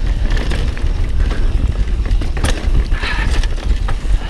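Mountain bike riding down a rough trail: tyres rumbling over the ground and the bike rattling, with sharp knocks from hits on rocks or roots, the loudest about two and a half seconds in. Heavy wind buffeting on the helmet-mounted camera microphone underneath.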